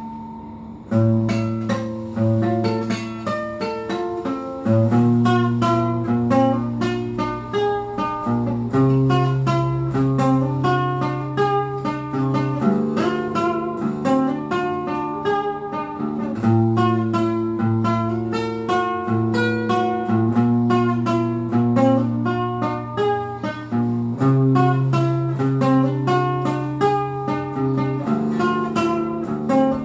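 Acoustic guitar playing a quickly picked melody over held bass notes, in a repeating pattern.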